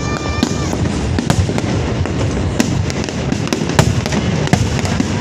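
Fireworks display: a continuous rumble and crackle with many sharp bangs going off at irregular intervals. A held pitched tone sounds at the start and stops a little under a second in.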